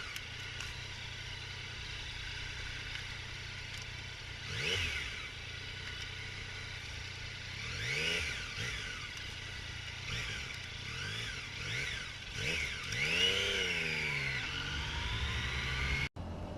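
Motorcycle engine running at low speed in traffic, its note rising and falling several times as the throttle is blipped. The sound cuts out for an instant near the end.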